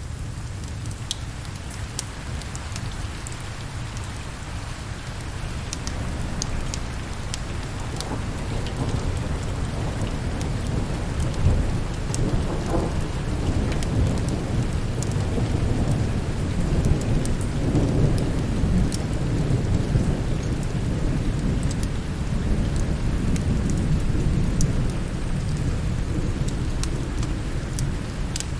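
Steady rain with a long, low rumble of thunder that builds a few seconds in and eases off near the end, with scattered sharp clicks over it.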